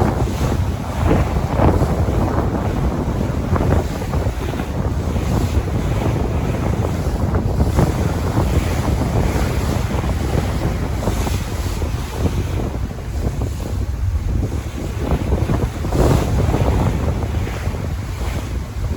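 Sea waves washing in a continuous rush that swells and eases, with wind buffeting the microphone in a low rumble.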